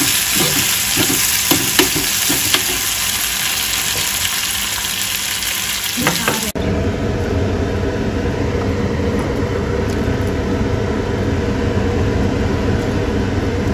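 Chopped tomatoes, onion and garlic sizzling in hot oil in a frying pan, with a metal spoon stirring and clicking against the pan. A little over halfway through, the sizzle cuts off suddenly and a steady low hum takes over.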